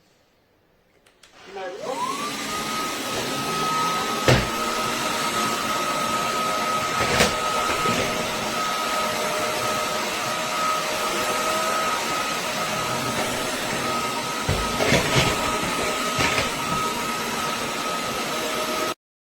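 Roborock Dyad Pro cordless wet-and-dry vacuum switching on, its motor whine rising quickly to a steady high pitch, then running with a few sharp knocks. It cuts off suddenly near the end.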